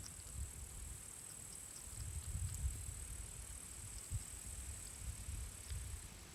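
Crickets chirring steadily in a high continuous band, with irregular low rumbles underneath.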